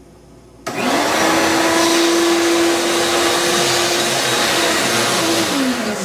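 A loud electric motor switches on abruptly about half a second in, spins up and runs steadily with a whine over a rushing noise, then winds down near the end.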